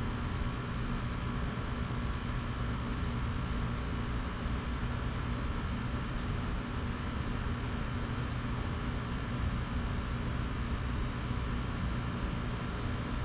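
Steady low hum and rumble, with short, high squeaky chirps of hummingbirds at a feeder several times between about four and eight seconds in.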